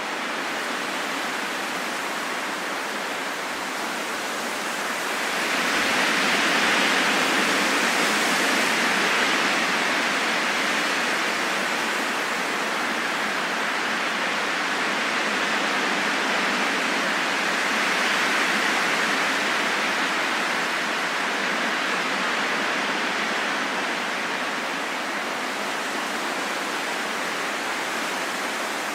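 Steady wind blowing, growing louder about five seconds in, swelling again around eighteen seconds, then easing toward the end.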